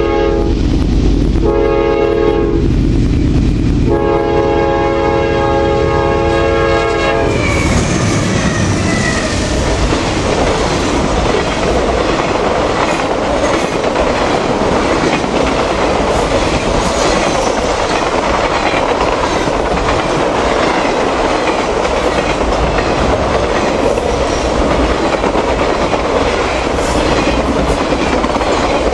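Norfolk Southern diesel locomotive's air horn blowing: a blast ending just as it starts, a short blast about a second in, and a longer one from about four to seven seconds. Then the Triple Crown freight train runs past close by, with steady clickety-clack of wheels over rail joints and a brief wheel squeal.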